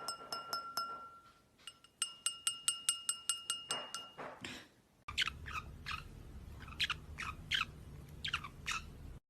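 A small bell rung rapidly in two quick runs of about six strikes a second, each strike ringing on. After a cut, a bird gives short, sharp, whistled chirps, several pairs of them.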